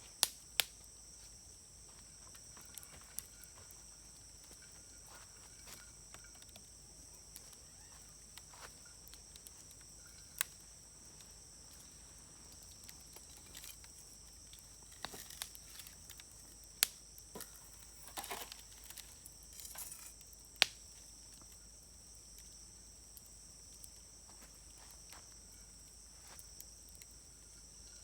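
Wood fire in a fire grill crackling, with sharp pops scattered through it: a few loud single snaps, the loudest a little past twenty seconds in, and a short run of crackle around eighteen seconds. A steady high insect trill runs behind the fire.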